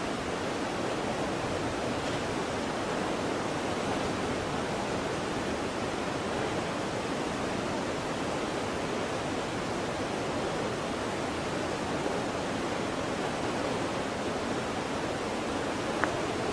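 Waterfall: a steady, unbroken rush of falling water, with a single brief tick near the end.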